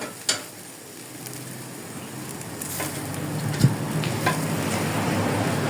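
Food sizzling on a charcoal grill, with a few sharp clicks and knocks. The sizzle grows louder through the second half.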